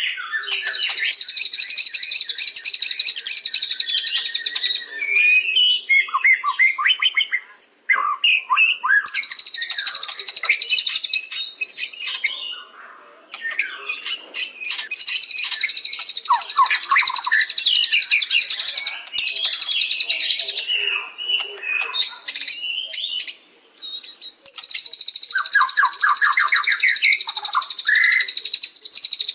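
White-rumped shama singing: long bursts of very rapid, high chattering trills lasting several seconds, alternating with varied, quick whistled phrases lower in pitch.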